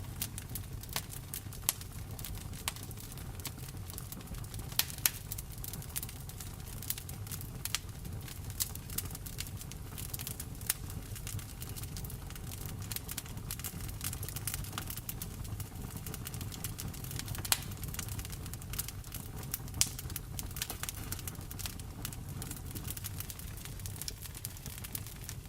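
Wood fire crackling in a fireplace: frequent sharp pops and snaps over a steady low rumble, with rain pattering.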